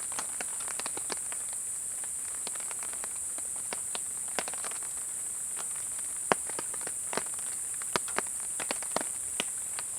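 Raindrops pattering irregularly on a camping tarp: scattered sharp taps of varying loudness over a steady high hiss.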